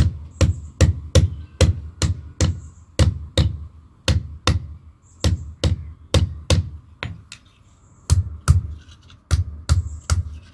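Blacksmith's hand hammer striking metal on an anvil in a steady rhythm, about two to three blows a second, each blow a dull thump with a ringing edge, with two short pauses in the hammering.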